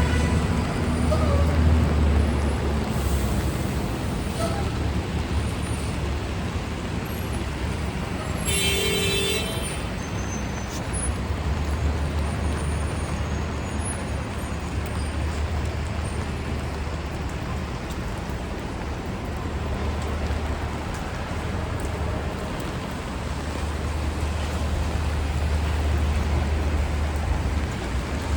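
Steady city street traffic: passing vehicles with a swelling low engine rumble over an even hiss. About nine seconds in, a brief high-pitched squeal is heard.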